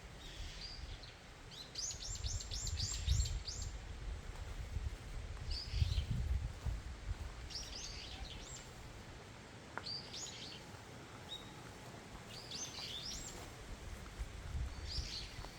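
Small songbirds calling in the woods: short bursts of high chirps repeated every few seconds, with one fast run of chirps about two seconds in. A low rumble rises and falls beneath them.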